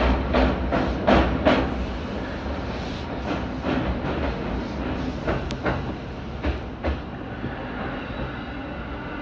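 Keihin-Tohoku line electric commuter train rolling slowly with a steady rumble, its wheels clicking over rail joints in pairs. The clicks die away after about seven seconds, leaving the plain running rumble.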